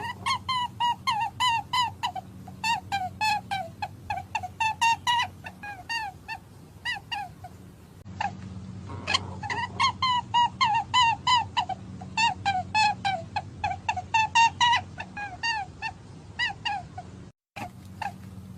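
Rabbit calling in quick series of short, squeaky pitched calls, about three or four a second, in two runs with a break about eight seconds in.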